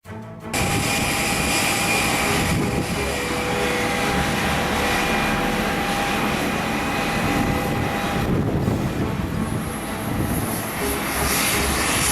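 Airbus A320-214's CFM56 jet engines running, a steady rushing noise with a few whining tones held through it; about ten seconds in a high hiss grows louder.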